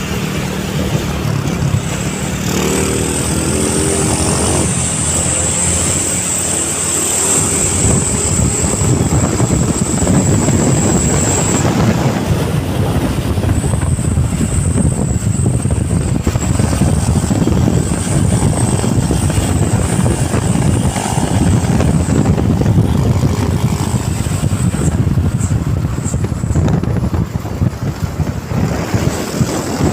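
Mitsubishi Canter truck's diesel engine running hard under a full load, a loud steady rumble with a thin high whine over it for much of the time.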